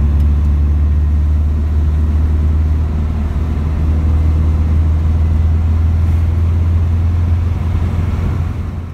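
Newly installed single-carburettor 1600 cc VW air-cooled flat-four in a Baja Bug, heard from inside the cabin, running steadily at cruise with a deep even drone. The engine is being broken in on its first hundred miles and running smoothly.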